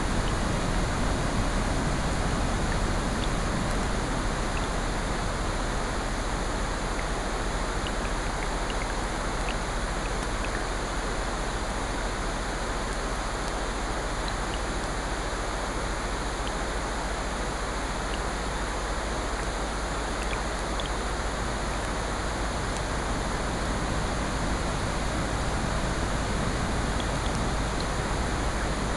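Layered sleep-sound mix of steady rain and ocean surf, an even hiss that swells slightly and slowly, with scattered small crackles of a wood fire.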